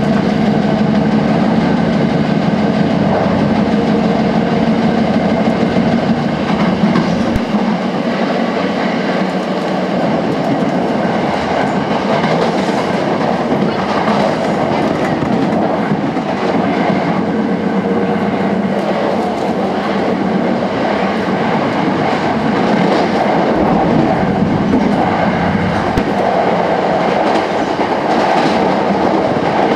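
Running noise inside a Sanyo Electric Railway 5000 series electric train: a steady rumble of wheels on rail. It is heavier and more booming in the tunnel, then thins out suddenly about seven seconds in as the train comes out into the open. Clicks from the wheels crossing rail joints come in clusters.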